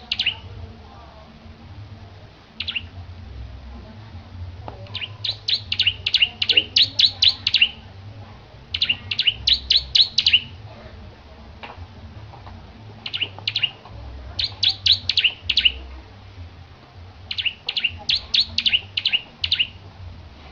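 Bar-winged prinia (ciblek) singing: phrases of quick, evenly repeated high chirps, about five a second, each phrase lasting one to three seconds with short pauses between.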